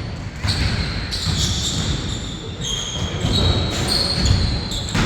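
A basketball being dribbled on an indoor court, with repeated thuds. Several short, high sneaker squeaks come from players moving on the floor.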